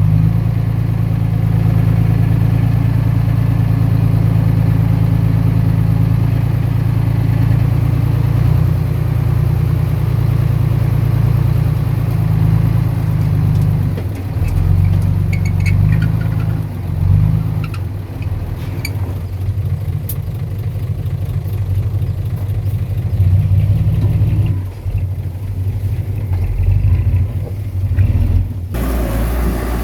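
Bulldozer's diesel engine running under load, steady at first and then rising and falling, with a few short metal clanks in the middle. The sound changes abruptly near the end.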